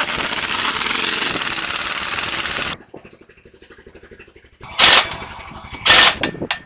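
Pneumatic impact wrench hammering for nearly three seconds with a rapid rattle, then two short bursts about a second apart near the end.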